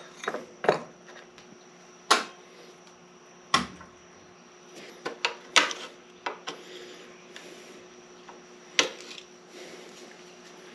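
Metal hand tools and transmission parts clinking and clanking as they are handled and set down: sharp clanks at irregular intervals, several of them loud, over a faint steady hum.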